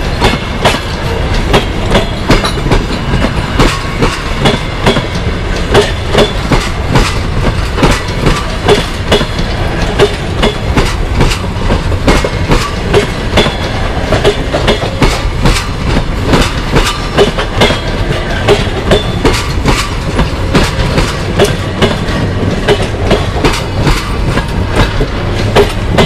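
Passenger coaches of a departing train rolling past, their wheels clicking over the rail joints in a steady clickety-clack rhythm over a continuous rumble.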